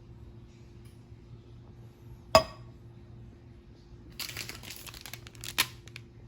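One sharp clink of a hard cup or glass, ringing briefly. About two seconds later comes a second and a half of crinkling and tearing of a drip-coffee packet, ending in a sharper click.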